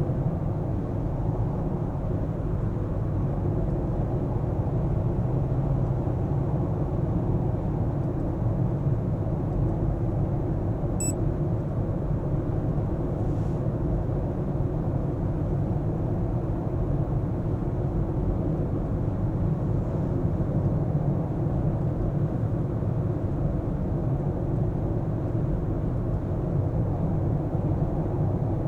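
Car driving in city traffic: steady low rumble of engine and tyre noise. A single short, high electronic beep sounds about eleven seconds in.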